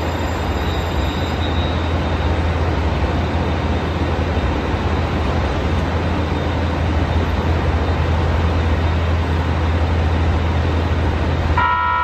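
Steady, loud rumbling drone of a train standing at a station platform, heaviest in the low end. Near the end it drops away abruptly and a steady set of high tones begins.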